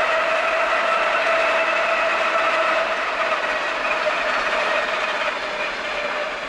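A vehicle passing with a steady whine, dropping slightly in pitch and fading toward the end as it moves away.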